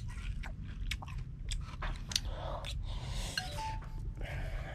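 Someone chewing crispy deep-fried breaded mullet, with repeated short crunches and clicks.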